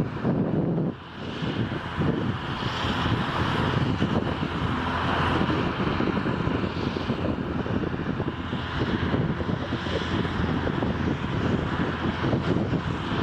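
Airliner engines running loud and steady, a dense rumble with a brief dip about a second in.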